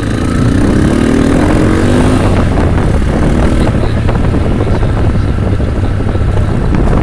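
Yamaha Byson motorcycle's single-cylinder engine revving up as the bike pulls away, its pitch climbing over the first two seconds. It then runs on under load with heavy wind rush on the microphone, and cuts off suddenly near the end.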